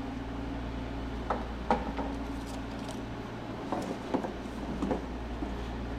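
Scattered light clicks and taps of spark plug wires being handled and sorted, over a steady low background hum.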